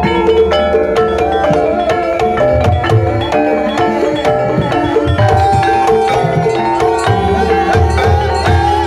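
Javanese gamelan music for a kuda lumping dance: hand drums keep a steady beat under a melody on struck metal keys, with a wavering held melodic line above.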